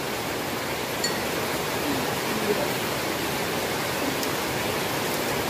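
Heavy rain falling in a steady, even hiss, with faint voices briefly in the background.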